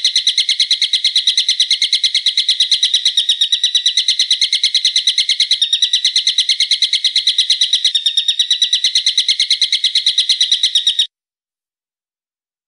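A bird's sharp, rapid trill of evenly spaced notes, about nine a second, going on without a break for about eleven seconds and then cutting off suddenly.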